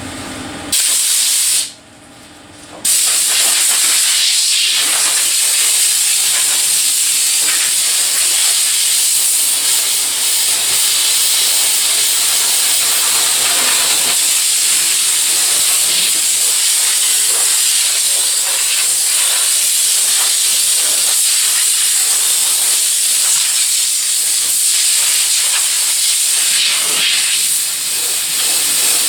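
Sander working body filler on a truck body panel, giving a steady hiss. It runs briefly about a second in, stops for about a second, then runs on without a break.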